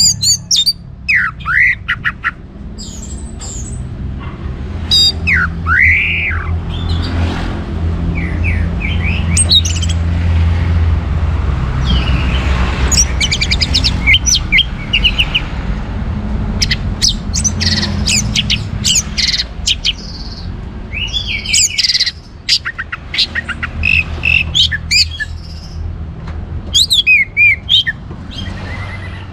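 Orange-headed thrush singing a loud, varied song of rapid whistled phrases and sweeping notes in bursts with short gaps, over a steady low hum.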